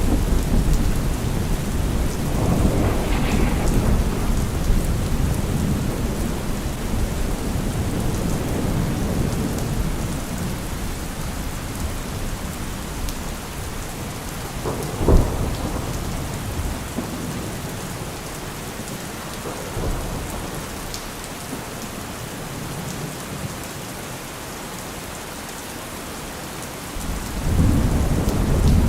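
Steady rain in a thunderstorm, with thunder rolling in low rumbles at the start and again near the end, and one sharp thunder crack about halfway through.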